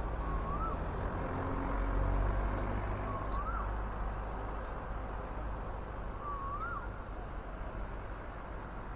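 Outdoor bird calls: a short whistle that rises then falls, repeated three times about three seconds apart, with faint low cooing from spotted doves, over a steady low wind rumble.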